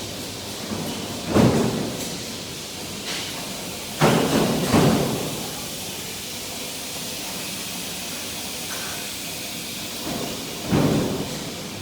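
Factory floor noise: a steady machinery hiss under several loud, sharp clanks that ring out briefly, coming at uneven intervals, two close together about four seconds in.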